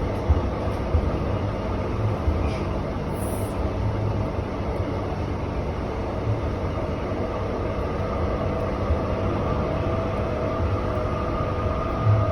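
Train running: a steady rumble and rattle with irregular low knocks, and a faint steady whine coming in about two-thirds of the way through.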